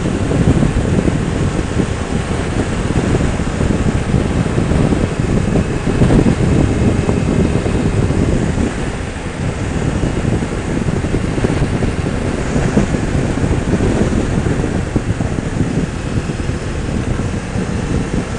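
Wind rushing over the microphone of a motorcycle on the move, with the engine running steadily underneath.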